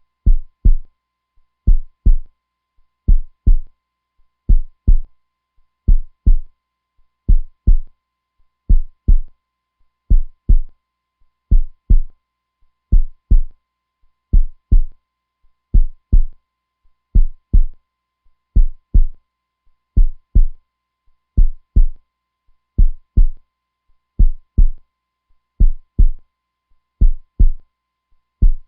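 Heartbeat, steady and strong: a lub-dub double thump repeating about every one and a half seconds, deep and low.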